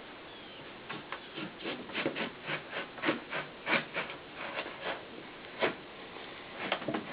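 Mason twine sawed back and forth behind an emblem stuck to a truck fender, cutting through the emblem's adhesive. It makes a run of short strokes, about three a second, then a few separate strokes near the end.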